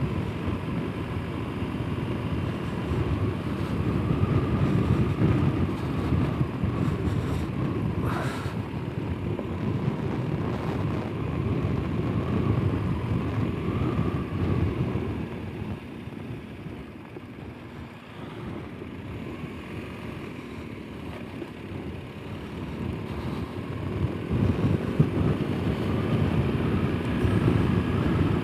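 Motorcycle riding at low speed: the engine running under a steady rumble of wind and road noise on the rider's microphone, dropping in level for a few seconds past the middle before rising again.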